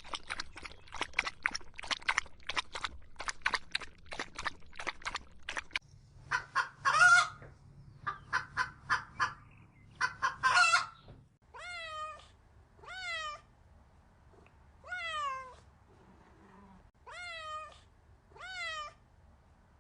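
A chicken clucking rapidly, then a few harsher squawks, then a domestic cat meowing about five times, each meow falling in pitch.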